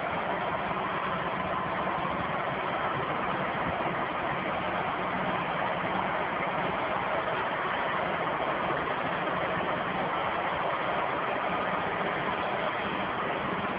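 A vehicle engine running steadily: a constant rough noise with a faint low hum.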